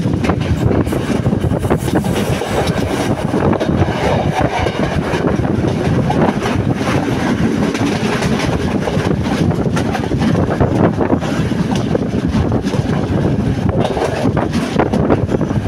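Sri Lanka Railways S10 diesel multiple unit running along the track, heard from an open doorway: a loud, steady rumble of wheels on rails with frequent sharp clacks, and wind buffeting the microphone.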